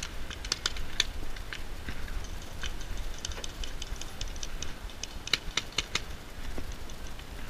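Airsoft guns firing during play: scattered sharp clicks and short runs of shots, with a quick cluster of several shots about five seconds in.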